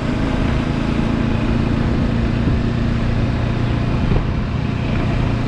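Bajaj Dominar 400's single-cylinder engine running at a steady cruise, its low hum heard under steady wind and road noise while the bike is ridden.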